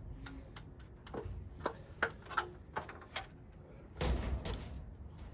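Scattered light clicks and knocks of hand work on a garage door, with a louder knock and short rattle about four seconds in.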